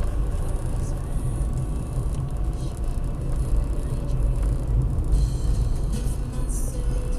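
Car driving along a road: a steady, loud low rumble of engine and tyre noise.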